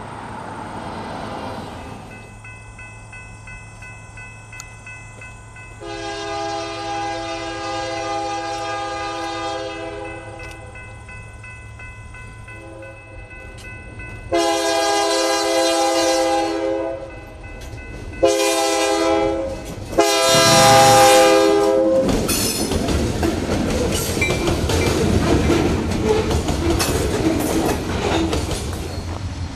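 Diesel freight locomotive's air horn sounding a series of chord blasts, long ones and a short one, faint at first and growing louder as it approaches. Then the locomotive's engine and the train's rolling wheels pass close by.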